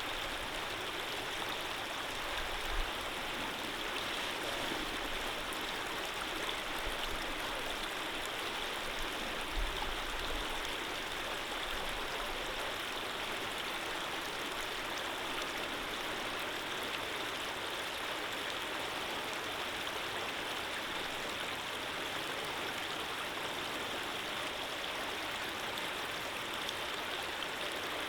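Stream water flowing steadily, an even rushing sound, with two brief low bumps about three and ten seconds in.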